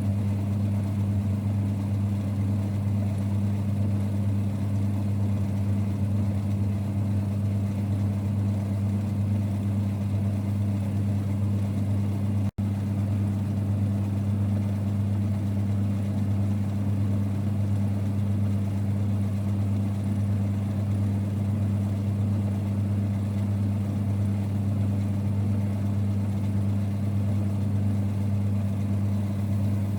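1946 Boxford lathe running steadily with an even, low rumble. It cuts out for an instant about halfway through.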